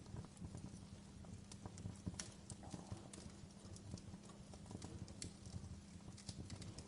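Wood fire burning in a fireplace, crackling with many small, irregular sharp pops over a low, steady rumble.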